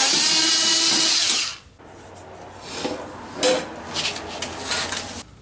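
A power drill running: it spins up with a rising whine, runs steadily and stops about a second and a half in. After that come a few quieter short whirs and handling noises.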